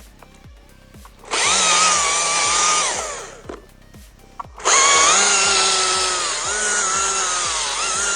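Chainsaw cutting wood in two long runs: one of about two seconds, then a longer one starting just past halfway. The engine pitch wavers and sags as the chain bites.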